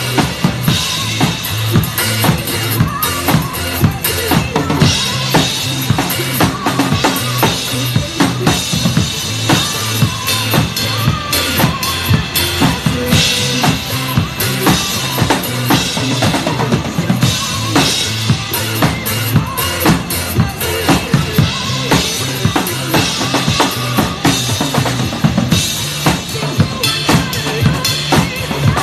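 Drum kit played in a driving, steady beat of bass drum, snare and cymbals along with a pop backing track.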